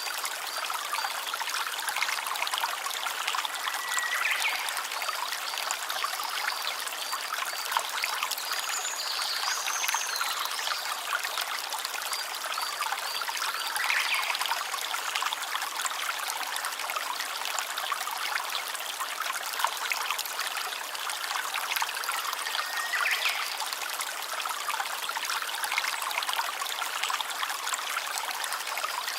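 Small stream trickling and running steadily over stones, with a few faint short high notes here and there.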